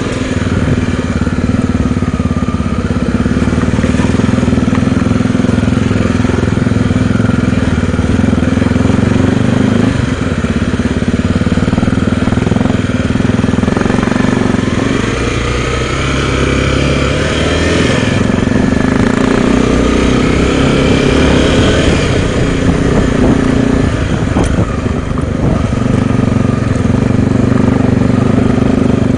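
Honda XR250 Tornado single-cylinder motorcycle engine running steadily while riding, its note shifting about halfway through.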